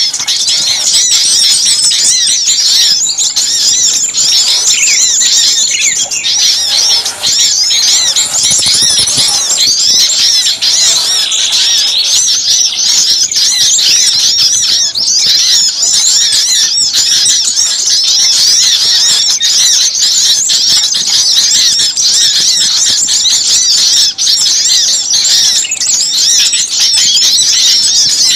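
Dense, continuous chattering of many small songbirds at once: rapid, high, overlapping chirps with no pause. It is a bird-lure (pikat) recording of noisy small birds, meant to draw small birds in.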